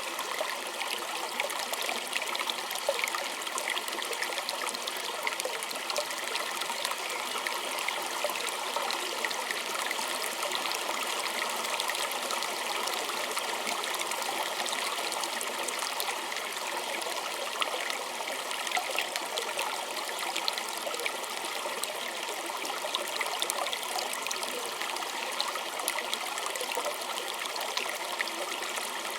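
Small stream babbling and trickling steadily, a dense patter of little splashes over a continuous rush of water.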